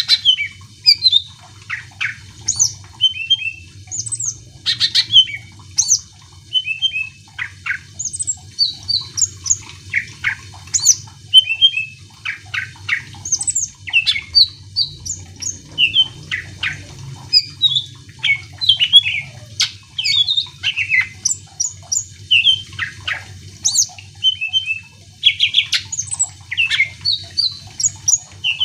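Greater green leafbird (cucak ijo) singing in full: a continuous, rapid string of varied sharp whistles, chirps and quick rising and falling notes with only brief pauses. A faint low hum runs underneath.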